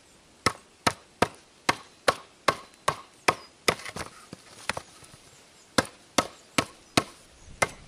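Small hatchet chopping into a split log half with a quick run of sharp blows, about two and a half a second. The blows pause briefly about four seconds in, then resume. The hatchet is cutting a groove out of the heartwood.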